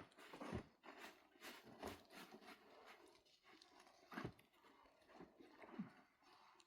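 Faint, irregular knocks and rustling, with a few louder taps about a second in and around four seconds in.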